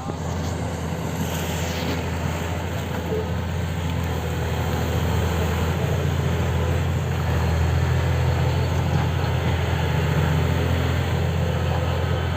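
Heavy diesel engine of a Sany 500H excavator running with a steady low drone, growing louder over the first several seconds as it works.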